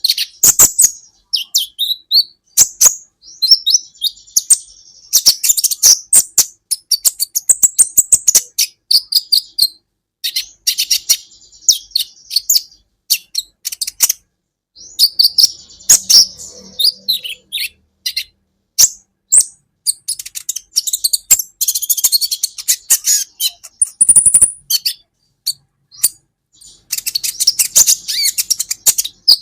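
Olive-backed sunbird (kolibri ninja) singing: rapid, high-pitched chirps, trills and sharp clicking notes in busy phrases, with short pauses between them.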